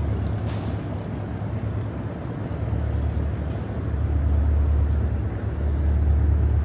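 Outdoor urban ambience: a steady low rumble under a general hum, growing a little louder about four seconds in.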